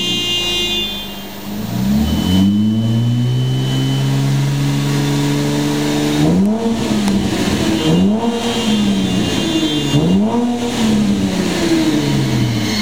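2010 Holden Commodore's 3.0-litre V6 revved in park: the revs fall back, climb about two seconds in and are held steady for a few seconds, then are blipped up and down three times.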